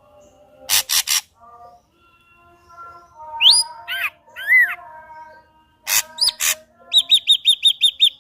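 Ashy drongo singing: harsh rasping notes, then clear whistled notes that rise and fall, and a quick run of about eight repeated notes near the end.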